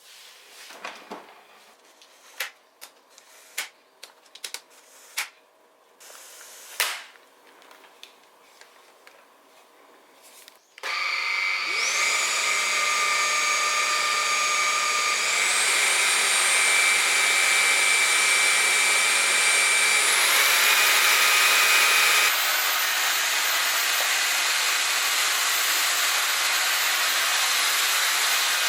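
A series of sharp clicks and knocks, then an LG A9S cordless stick vacuum switching on about eleven seconds in: its motor whines up to speed and runs steadily, stepping up in pitch twice as it is switched to higher power settings.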